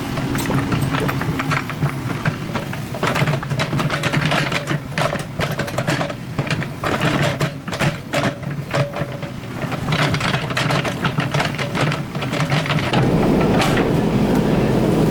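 Excavator engine running steadily while the bucket scrapes and knocks through rock and soil, a dense clatter of sharp knocks over the hum. About thirteen seconds in, the engine gets louder and heavier.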